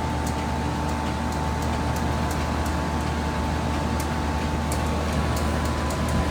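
Heat pump running steadily in heat mode: a low hum with a thin steady whine above it. Its coil is iced up and it is losing airflow as it builds toward a defrost cycle. Faint, irregular sharp ticks sound throughout.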